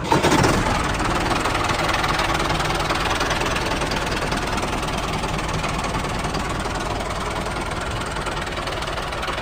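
Engine running steadily with a rapid, even beat.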